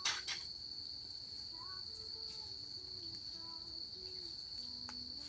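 Crickets trilling in one steady, unbroken high-pitched tone, with a couple of sharp clicks at the very start.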